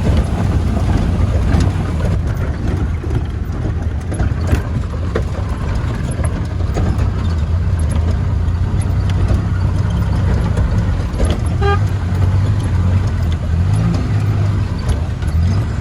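Road vehicle driving, with a steady low engine and road rumble. A brief high beep sounds about twelve seconds in.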